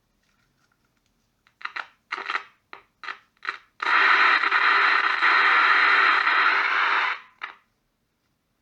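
Old Philips transistor radio's speaker giving a few short crackles of static, then a loud steady hiss of static for about three seconds that cuts off, then one last crackle. The set plays but picks up no station.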